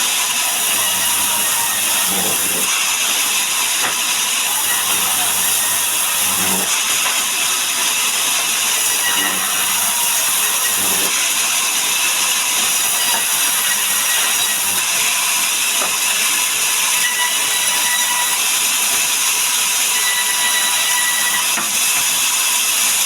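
Sawmill machinery running steadily: a loud, even hiss with a faint whine, no cuts starting or stopping.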